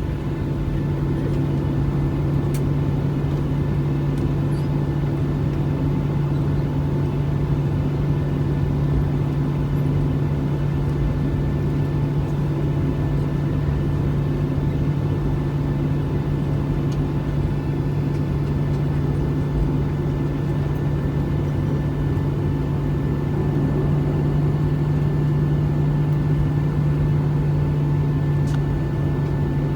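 Steady cabin noise inside an airliner taxiing after landing: a low, even hum with a rumble beneath it.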